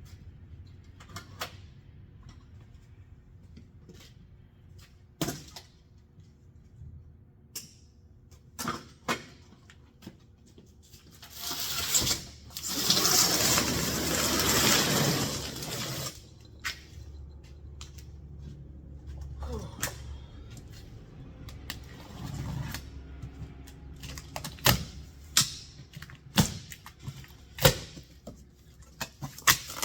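Packaging being handled as a new engine is unpacked: scattered knocks and clunks, with a loud harsh noise lasting about four seconds near the middle and a quicker run of sharp knocks toward the end.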